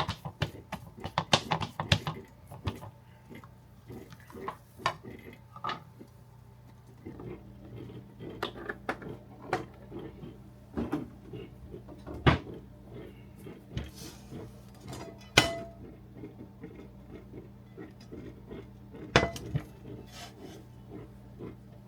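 Kitchen clatter: utensils and dishes knocking and clinking in irregular sharp clicks and clanks, a few of them louder, over a steady low hum.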